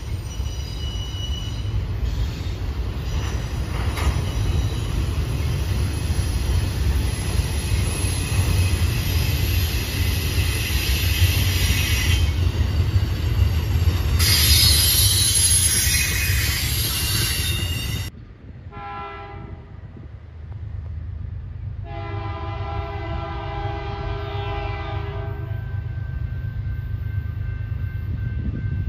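Double-stack container train rolling past close by: a steady heavy rumble of wheels on rail with high-pitched wheel squeal, loudest around the middle. It cuts off suddenly, and a distant diesel locomotive's multi-chime air horn sounds a short blast and then a longer one over a quieter rumble of the approaching train.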